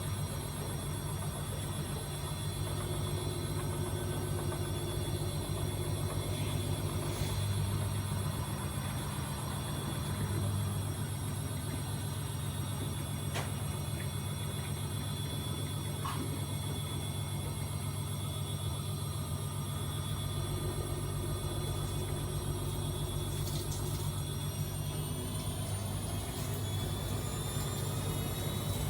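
AEG Öko-Lavamat 74780 washing machine running with a steady motor hum and drone; near the end a whine starts to rise as the motor speeds up.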